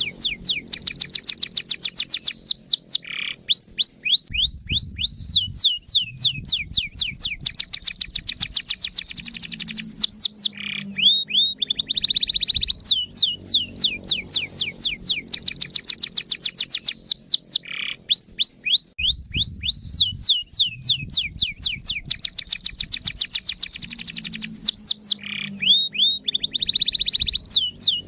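Canary song played as a lure to set other canaries singing: fast trills of high chirps, about ten notes a second, broken by short runs of rising and falling notes. The same phrase repeats about every seven to eight seconds, as in a loop.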